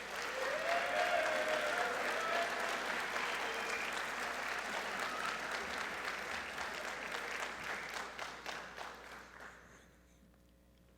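Audience applauding, with a voice calling out briefly near the start; the applause fades away about nine to ten seconds in.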